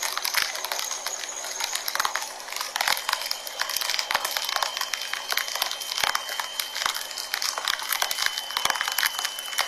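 Rain pelting the camera and microphone while riding at speed: a dense, steady crackle of drops hitting. A faint high whine joins about three seconds in.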